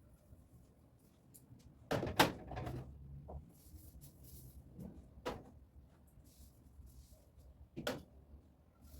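Knocks and clatters of fridge racks and the fridge door being handled during cleaning: a loud knock with a short clatter about two seconds in, then single knocks near five and eight seconds in.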